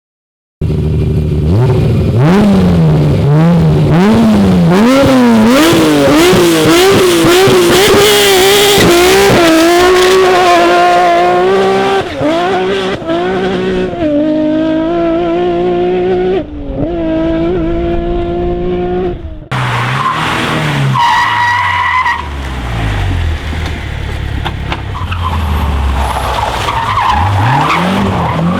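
Rally car engines at hard throttle, the pitch climbing and dropping again and again through gear changes and lifts. About two-thirds of the way through, the sound cuts abruptly to another car at lower revs.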